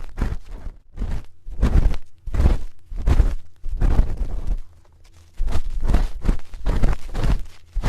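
Spoon scraping and rubbing in close-up for ASMR ear cleaning: repeated short strokes, about one or two a second, with a brief pause a little past halfway.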